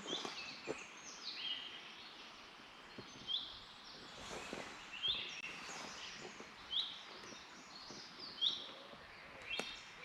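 Birdsong: a bird repeating a short, high, falling call about once a second, with other faint chirps over a quiet background hiss.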